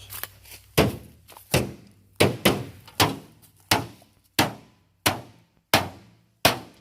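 A 3-pound sledgehammer pounding a microwave oven's metal casing, about ten heavy blows roughly one every 0.7 s, each with a short ringing decay.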